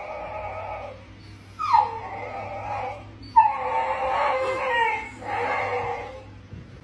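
A dog whining and howling in about four drawn-out calls, two of them starting with a sharp downward slide in pitch.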